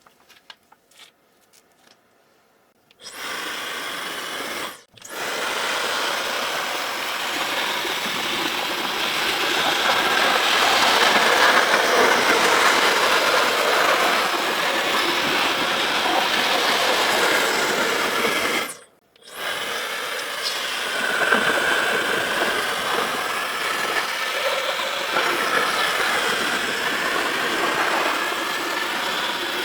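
A few faint clicks, then a small motorised tool switches on about three seconds in and runs with a steady rushing noise. It cuts out briefly twice, a couple of seconds after starting and again past the middle.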